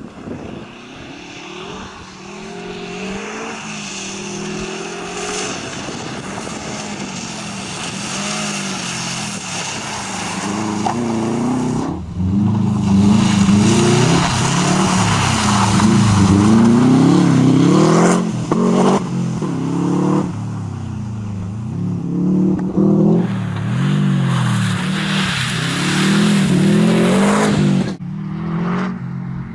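Subaru Impreza rally car's boxer engine revving hard and falling back again and again as it accelerates, shifts gear and brakes through corners. It is quieter in the first few seconds and louder once the car is near.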